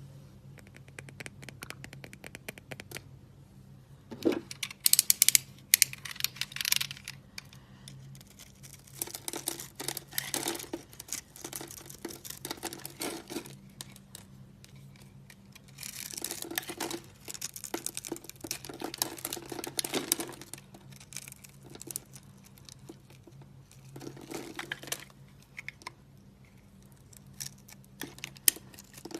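Dry soap being cut and crumbled, in repeated stretches of crisp crackling and scraping a few seconds long.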